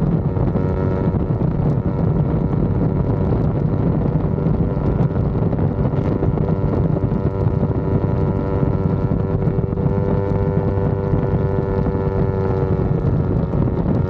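Yamaha R25's 250 cc parallel-twin engine running at a steady, even pace while riding, with wind noise on the microphone.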